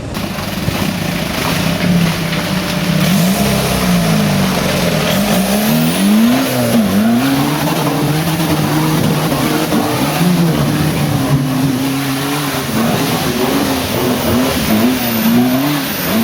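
An off-road car's 1.9 TDI diesel engine working hard, its revs rising and falling again and again as the throttle is worked.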